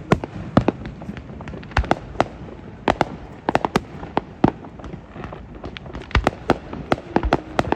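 Fireworks display going off: an irregular string of sharp bangs, several a second, some with a short ringing tail.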